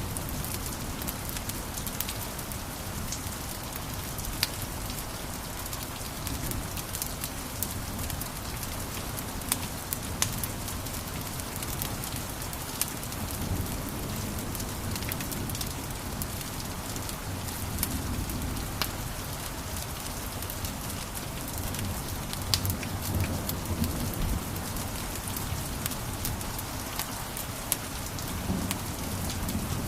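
Wood fire burning in a fireplace: a steady low rumble and hiss of the flames with scattered sharp crackles and pops throughout.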